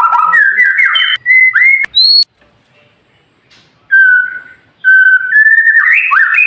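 White-rumped shama (murai batu) singing: a fast run of rising whistled phrases that breaks off about two seconds in. After a pause of about a second and a half, short steady whistles return and build into rising sweeps near the end.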